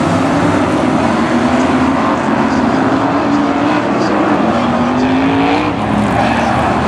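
BriSCA F1 stock cars' V8 engines racing as a pack, loud and continuous, their pitch rising again and again as they accelerate.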